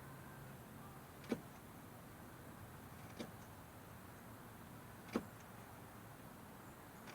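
Chisel work on a wooden dowel: four sharp knocks, about two seconds apart, over a faint low hum.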